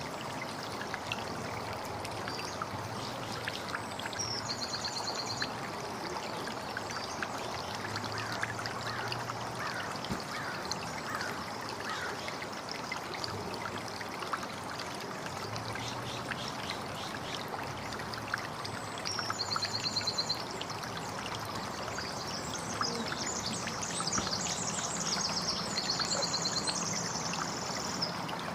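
Water trickling and running steadily, like a small stream, with birds chirping over it; a few short, rapid high trills stand out.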